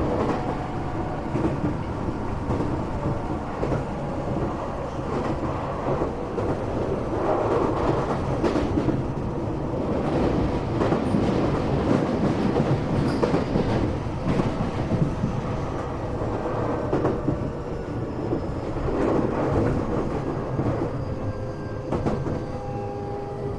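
Tokyo Metro 8000 series electric train running, heard from inside the passenger car: a steady rumble of wheels on rail with clickety-clack over the rail joints. The rumble eases a little near the end, where faint steady tones come in.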